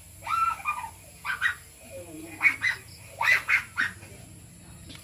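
Birds calling nearby: a run of about eight short, loud, harsh calls in three or four quick groups, some dropping in pitch.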